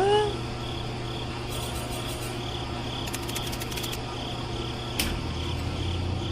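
Insects chirping in an even rhythm, about two chirps a second, over a steady low hum, with a sharp click about five seconds in.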